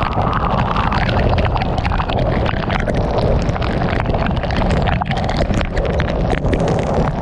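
Heavy rain pelting a moving car, a dense crackle of drops striking over a steady low rumble of wind and road noise.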